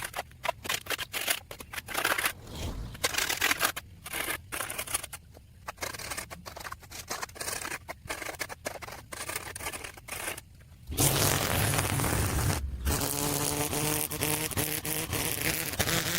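A gas string trimmer working the storm drain edge. For about eleven seconds there is choppy scraping and clattering as the line cuts through silt and roots. Then the trimmer's small engine runs steadily louder from about eleven seconds in.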